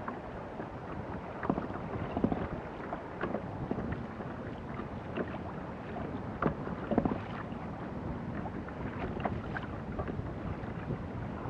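Water washing against a kayak's hull with wind on the microphone, broken by scattered light knocks and clicks.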